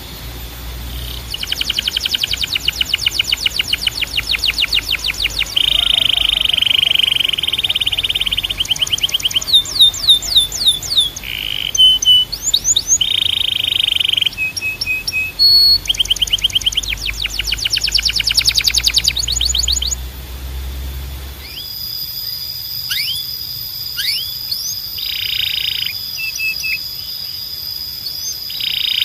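Canary singing a continuous song of fast trills of rapidly repeated notes, quick sweeping whistles and short buzzy rolls. About two-thirds of the way in, a low hum underneath stops and the song goes on with sweeping notes over a long, steady high whistle.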